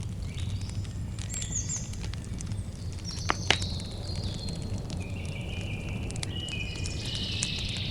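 Campfire crackling with scattered small pops and two sharper pops about three and a half seconds in, over a low steady rumble, while birds call in short chirping phrases.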